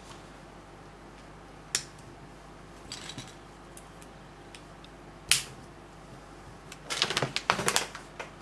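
Small plastic LEGO pieces clicking and rattling as they are handled and pressed together, with a few single sharp clicks and a quick run of clicks and rattling near the end.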